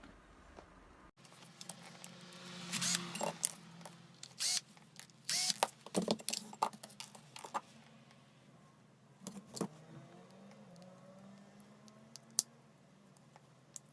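Small hard parts of a cordless hammer drill being handled and worked on: a run of clicks, light clatter and rattles, busiest in the first half, with one sharp click near the end.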